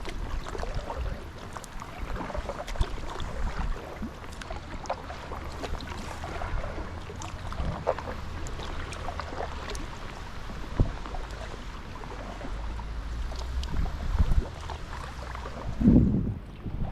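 Wind buffeting the microphone and water lapping around a kayak, with scattered small knocks against the hull. A louder low burst comes near the end.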